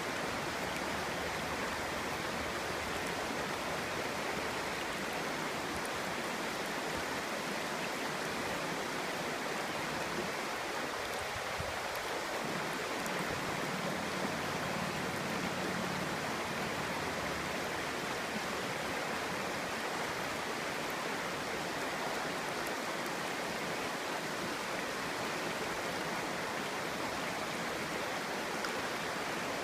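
Clear stream water flowing and babbling steadily over stones.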